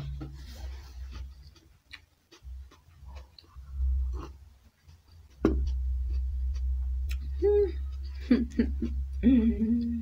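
A person biting and chewing omelette close to the microphone, with many small mouth clicks and a low rumble that comes in about halfway and stays. Near the end come two short voiced murmurs.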